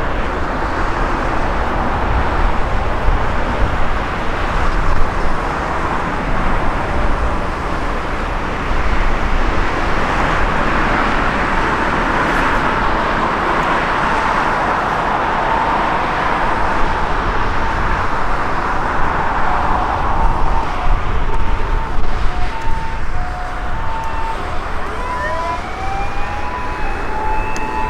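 Distant jet airliner engine noise that swells and then fades over about ten seconds, under heavy wind rumble on the microphone. Short, broken steady tones come in toward the end, and near the very end rising pitched glides start.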